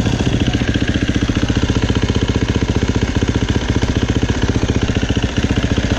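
Husqvarna dirt bike engine idling steadily, with an even rapid pulse and no revving.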